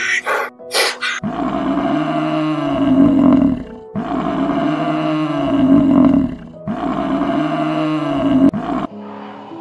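A few short sharp bursts of sound, then an African buffalo's deep bellow heard three times in a row. Each call is about two and a half seconds long and rises then falls in pitch, and the three are nearly identical.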